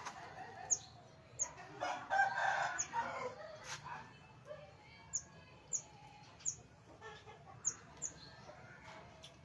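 Birds calling in an aviary: one longer call about two seconds in, and short, high, sharp chirps repeated every second or so.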